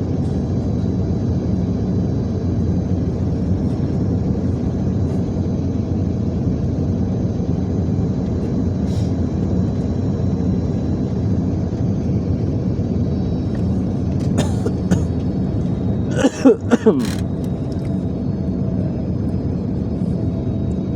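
Steady cabin rumble of an airliner in flight on approach: engine and airflow noise heard from inside the passenger cabin. About sixteen seconds in, a short loud sound with a wavering pitch cuts in briefly.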